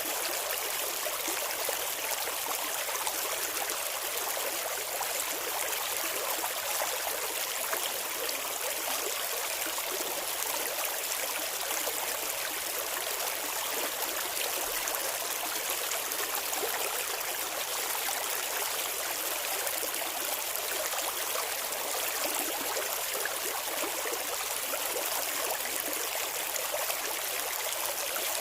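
Clear, shallow river water flowing and babbling steadily, an even rushing hiss with almost no low rumble.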